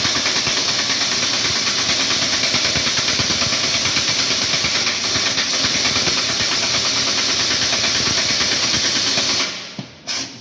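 Pneumatic impact wrench run on a truck's leaf-spring U-clamps: a loud, steady compressed-air hiss with a fine rapid rattle under it, which stops abruptly about nine and a half seconds in.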